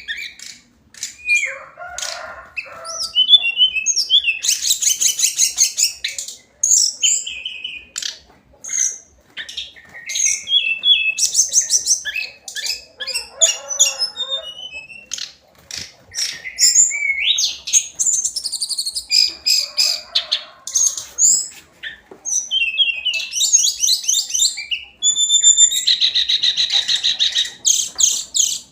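Hill blue flycatcher singing: a run of quick, high-pitched trilled and twittering phrases separated by short pauses.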